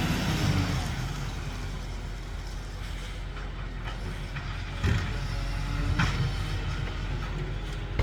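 Garden waste garbage truck's engine running, loudest in the first second and then easing to a steady rumble, with two short knocks about five and six seconds in.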